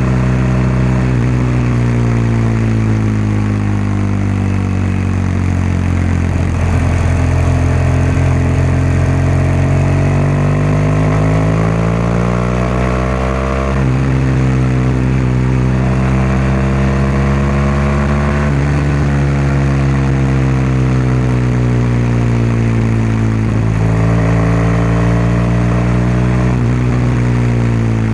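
BMW R1200GS boxer-twin engine and exhaust running while riding. The pitch climbs under throttle, drops suddenly about halfway through at a gear change, then eases down and picks up again near the end.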